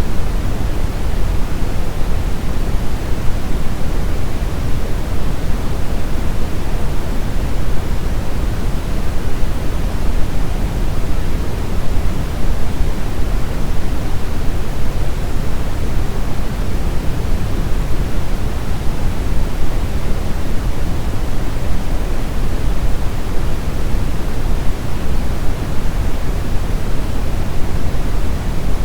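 Synthetic brown noise: a steady, even hiss and rumble weighted toward the low end, unchanging throughout.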